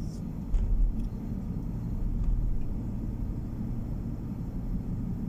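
Steady low road and engine rumble of a moving car, heard from inside the cabin, with a brief low thump about half a second in.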